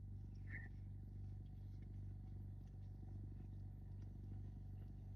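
A car engine idling with a steady low hum, faint small clicks over it.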